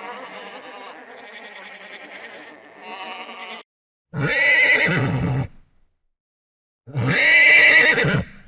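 An animal calling: a fainter, continuous call for the first few seconds, then two loud calls, each about a second and a half long.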